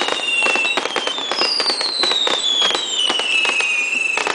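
Fireworks display: a dense run of bangs and crackling bursts, with long whistles falling steadily in pitch over them. One whistle fades out under a second in, and another starts later and runs for about three seconds.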